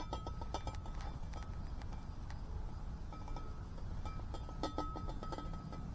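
A small camp stove burning, with scattered small crackles and clicks over a steady low rumble.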